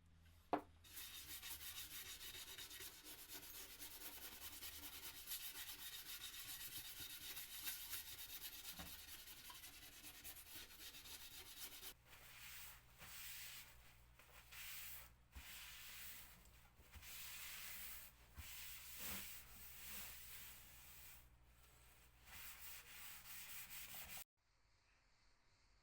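Wood being sanded: abrasive rubbing over a wooden surface, first as one continuous stretch, then as a series of shorter strokes, before stopping abruptly near the end.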